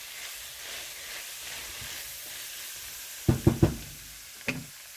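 Ground beef and vegetable stir fry sizzling in a frying pan as it is stirred with a spatula, the liquid cooked off so it fries dry. A quick cluster of sharp knocks comes a little past halfway, with one more near the end.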